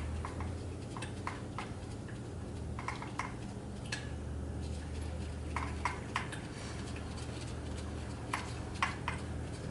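Scattered light metallic clinks and ticks of hand tools and hardware being handled, at irregular intervals over a steady low hum.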